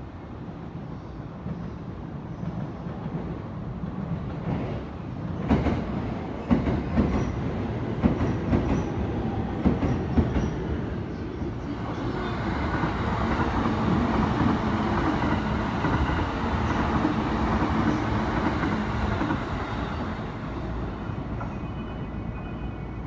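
A JR E233-series electric train passing close by. Its wheels clack sharply over rail joints for several seconds, then it gives a louder steady rumble with a low motor hum that eases off as it moves away.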